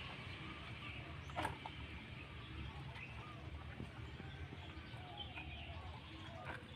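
Faint background ambience with a low hum and scattered small bird chirps, and a single sharp click about a second and a half in.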